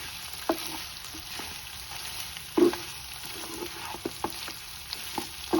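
Pepper chicken sizzling in oil in a pan while it is stirred, a spatula scraping and knocking against the pan about six times, the loudest knock about two and a half seconds in. The sizzle marks the last stage of the fry, with the cooking water dried off and the oil separating from the masala.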